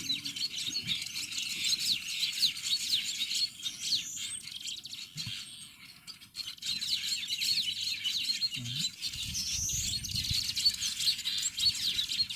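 A weaverbird colony chattering, a dense run of quick, high chirps that thins out briefly around the middle.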